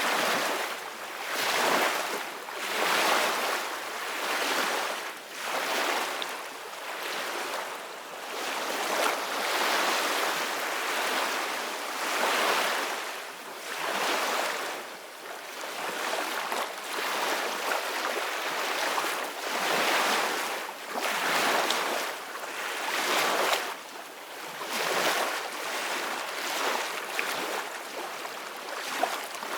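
Ocean waves breaking and washing in, a steady rushing noise that swells and falls back every couple of seconds.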